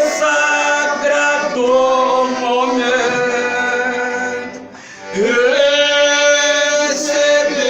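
Folia singers' verse sung by men's voices in long, drawn-out held notes, with a short break about four and a half seconds in before the next long note begins.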